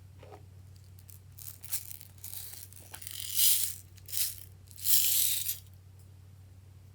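Small loose bits rattling in a container, shaken in several bursts that are loudest about halfway through and again near the end.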